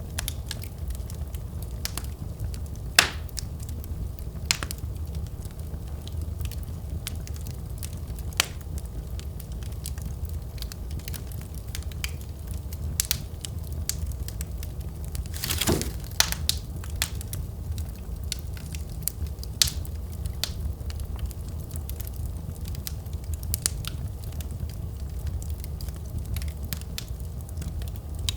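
Wood fire in a fireplace crackling: a steady low rumble of flames with scattered sharp pops, a loud pop about three seconds in and a longer crackling flare-up a little past halfway.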